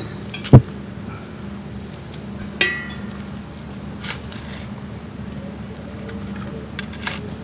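A loud thump, then about two seconds later a short ringing metallic clink, and a few light clicks, over a steady low hum.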